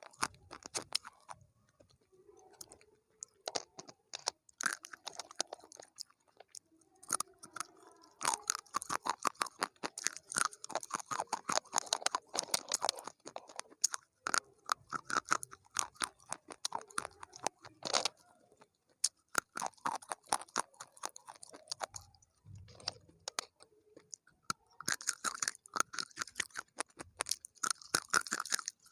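Close-miked chewing of crunchy food: runs of crisp, crackling crunches that come in bursts with short pauses between bites.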